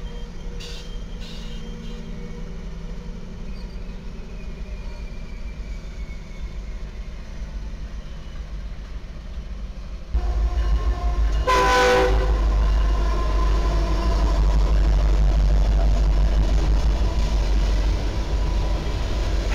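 Train rumbling along the tracks. About ten seconds in, the sound jumps much louder as a train passes close by, with a short horn blast a second or two later, followed by heavy, steady rumble.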